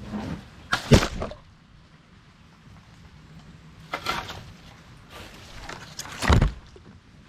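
Hollow thuds and clatter on a kayak: three bursts, about a second in, at about four seconds and just past six seconds, the first and last the loudest.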